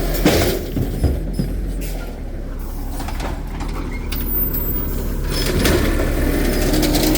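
Garbage truck's diesel engine running steadily, with two sharp knocks near the start.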